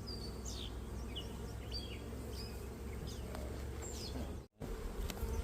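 A swarm of honeybees flying around an open hive, making a steady low buzzing hum. The sound drops out briefly about four and a half seconds in.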